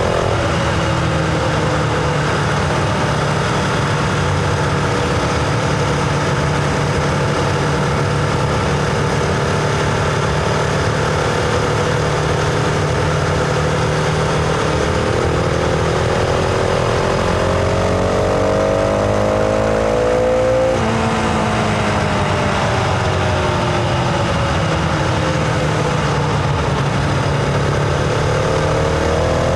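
Husqvarna Vitpilen 701's single-cylinder engine, heard from the bike while riding, over a steady rushing noise. The engine note sinks slowly under light throttle, then climbs steadily for several seconds. About two-thirds of the way through it drops sharply, as with a shift or the throttle closing, sinks again, and begins climbing once more near the end.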